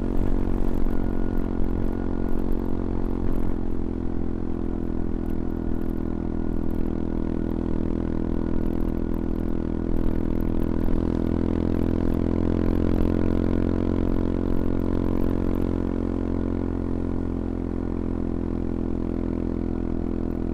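CFMoto Papio XO-1 motorcycle's engine running at a fairly steady pitch while riding, its level easing slightly late on.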